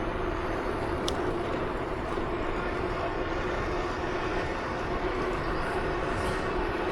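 Steady drone of a vehicle running at an even speed, with a rushing noise behind it, and a brief high tick about a second in.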